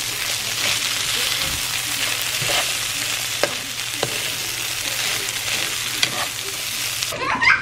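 Shredded hash browns with diced bell peppers sizzling in a frying pan as they are stirred, with a few sharp scrapes and taps of the utensil against the pan. The sizzle cuts off shortly before the end.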